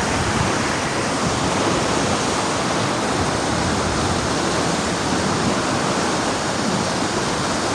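Water rushing steadily through an old hydroelectric dam's fast channel, an even, unbroken noise of falling water.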